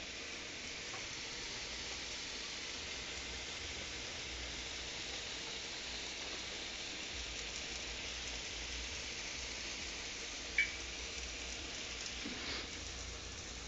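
Chicken with broccoli and cauliflower sizzling steadily in a small pan on the stove, an even frying hiss. A sharp tap about ten and a half seconds in, with a fainter one near the end.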